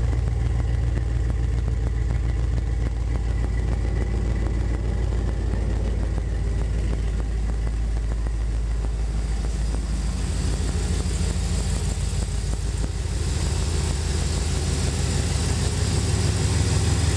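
Chevy Silverado 2500 HD's 6.0-litre gasoline V8 idling steadily in the first minute after a cold start at 37 degrees, following two months of sitting. The idle note shifts about ten seconds in.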